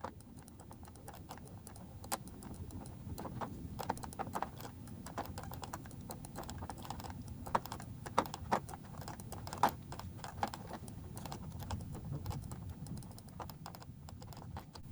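Light, irregular clicking and tapping from working a computer's input devices while retouching with a brush tool, with a few louder clicks scattered through. A steady low hum lies underneath.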